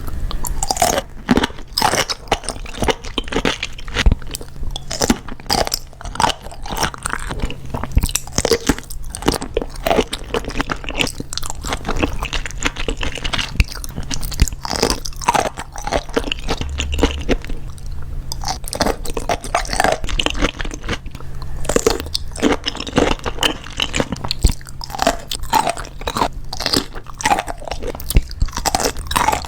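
Close-miked eating: crunchy bites and chewing, one after another in an irregular run of crackles.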